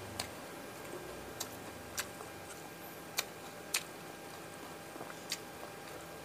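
Close-miked eating sounds of a person chewing fried fish and raw sambal: about six sharp, wet mouth clicks and lip smacks at irregular intervals over a steady faint hiss.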